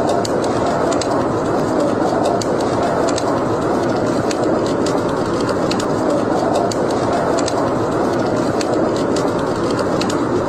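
Wood fire burning in a fireplace: a steady rushing roar of the flames with frequent sharp, irregular crackles and pops.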